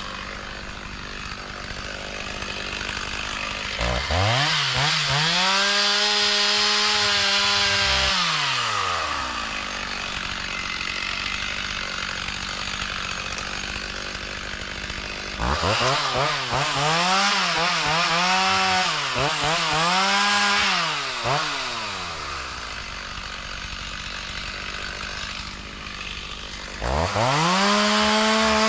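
Two-stroke chainsaw idling between three bouts of revving up to full throttle while cutting brush. In the middle bout the engine note dips and recovers several times as the chain bites.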